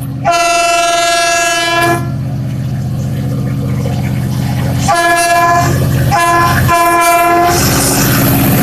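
Freight train locomotive sounding its horn: one long blast, then three shorter blasts about three seconds later, over a low train rumble that grows steadily louder.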